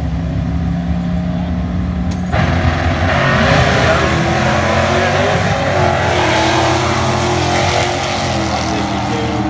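Drag car with a five-speed manual gearbox, its engine running steadily at the line, then about two seconds in it launches at full throttle with a sudden loud roar of engine and exhaust that carries on as it pulls away down the strip.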